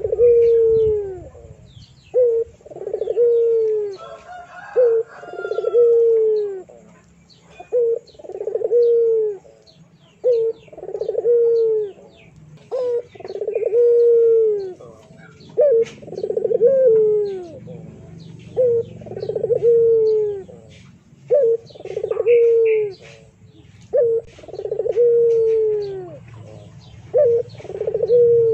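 A bird's low calls, repeated over and over: each is a short note followed by a longer note that falls in pitch, and they come every two to three seconds. Faint short high chirps from other birds sound in between.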